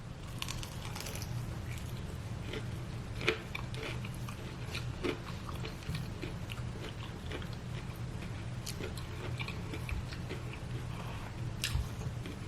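Close-up chewing and crunching of crispy fried chicken, many small irregular crackles with a few sharper crunches, over a steady low hum.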